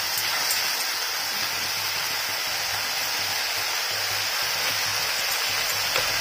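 Onion-tomato masala with ginger-garlic paste and tomato purée frying in oil in a kadai: a steady sizzling hiss. One light knock near the end.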